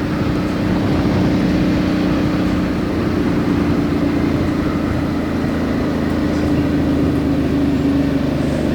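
Suzuki V-Strom 650's V-twin engine running at a steady low-speed cruise, heard from the motorcycle's tank, with road noise beneath it.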